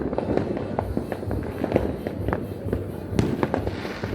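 Fireworks and firecrackers going off all over a town, many sharp bangs and pops at irregular intervals over a continuous low rumble of more distant explosions, like a war.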